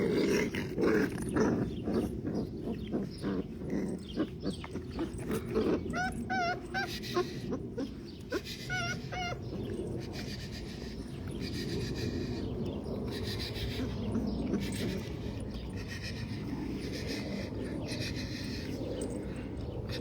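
Doberman puppies whimpering, with a few high, wavering squeals about six and nine seconds in. Many short clicks and rustles run under the cries in the first half, and it settles into a quieter, steadier sound after that.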